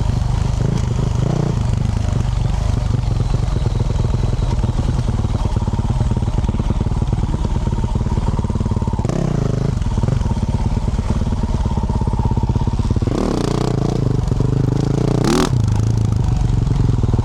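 2024 Yamaha YZ450F's single-cylinder four-stroke engine, fitted with a Yoshimura RS-12 exhaust, running under way on a trail ride. The revs rise and fall with the throttle around the middle of the stretch and again near the end, and a brief sharp noise cuts in near the end.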